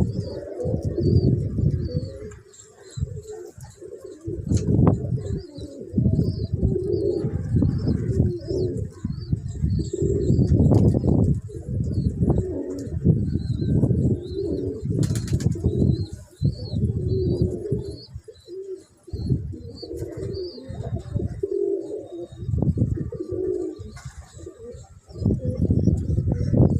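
Pigeons cooing again and again, with wingbeats now and then, over wind rumbling on the microphone. Faint high chirps of small birds run along behind.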